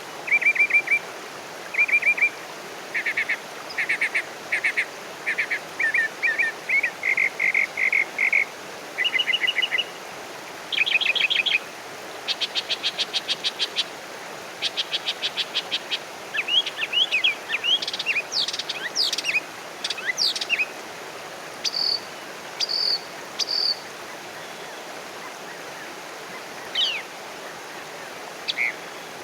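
Several birds singing and chirping over a soft steady background of outdoor noise. Short quick trills and repeated chirps, with a fast run of rapid notes in the middle and a few higher, sharper calls toward the end.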